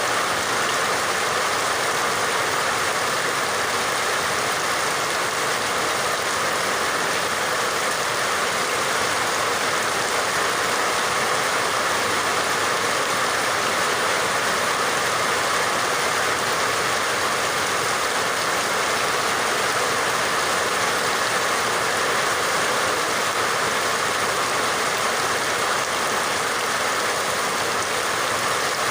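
Steady rain falling, an even hiss with no pauses or distinct drops standing out.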